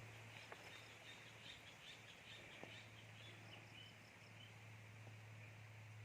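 Near silence: faint, rapid high chirping of small birds, fading out after about four seconds, over a steady low hum.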